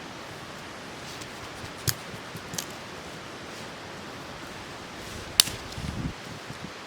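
Firewood being split with a knife: a few sharp wooden knocks, one about two seconds in, another shortly after, and a louder one past five seconds, followed by a dull thump. They sit over a steady background hiss.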